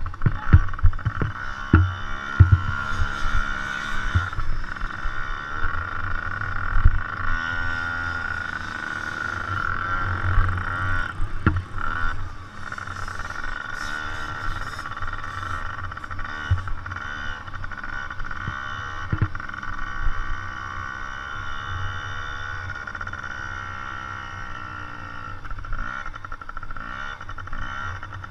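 Several motocross bikes' engines running and revving around the track, one steady high engine drone with pitch rising and falling as the bikes ride. Low thumps sound in the first few seconds.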